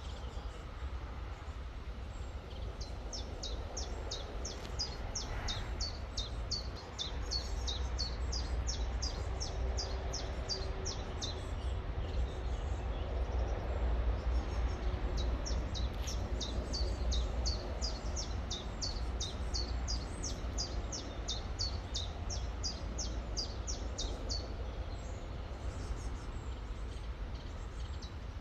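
A songbird singing long runs of quick, high, down-slurred notes, several a second, twice, over the steady rush of a river and a constant low rumble.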